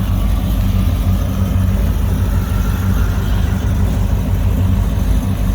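Engines of a line of cars idling steadily, a low rumble that holds level without revs.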